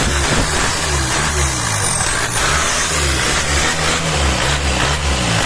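Chevrolet Tavera engine running, its note rising and falling over and over.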